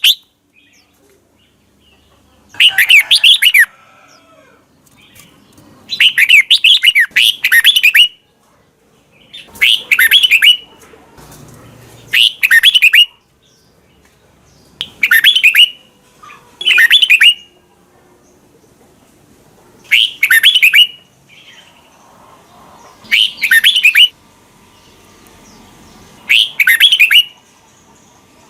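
Red-whiskered bulbul singing: short, fast-gliding whistled phrases about a second long, repeated every two to three seconds, several of them doubled in quick pairs.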